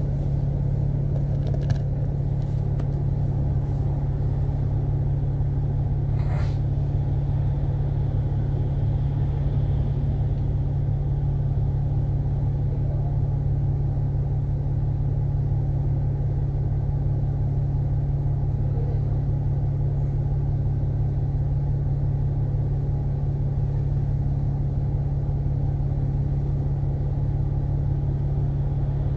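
Steady drone of a double-decker bus's diesel engine heard from inside the cabin, holding one unchanging pitch with no revving.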